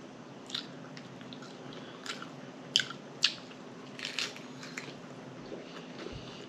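Close-miked mouth sounds of a person chewing a bun-less cheeseburger: scattered short smacks and clicks of the lips and mouth, a few seconds apart, the loudest near the middle.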